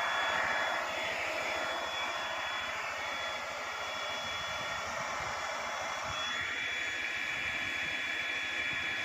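Hot air plastic-welding gun blowing steadily: a continuous rushing hiss with a fixed whine from its fan. About six seconds in the whine shifts higher and stronger.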